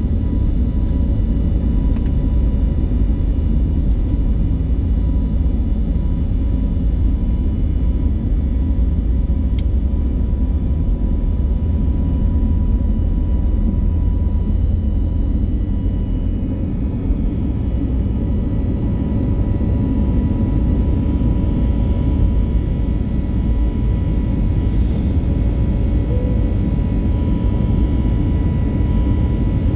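Airbus A321neo jet engines at takeoff power, heard inside the passenger cabin: a loud, steady roar and low rumble with steady whining tones over it. The rumble eases slightly about halfway through.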